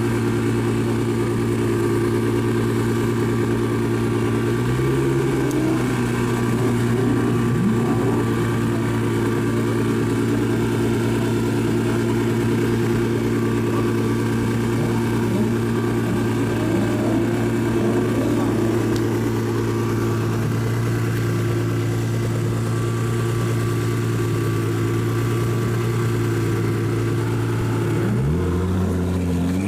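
Straight-piped Lamborghini exhaust idling steadily, with a short blip about five seconds in. Near the end the note dips and then climbs quickly as the engine revs up.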